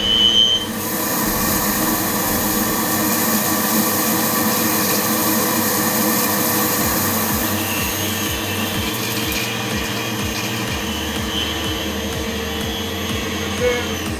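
Household vacuum cleaner, rebuilt as a workshop dust extractor with a cyclone settling tank, running steadily with a motor whine and rushing air in the hose.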